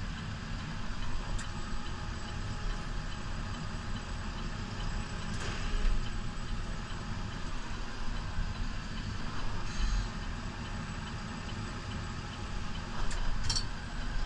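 New Holland Powerstar 75 tractor's diesel engine running steadily, a low even rumble with a few faint clicks and knocks.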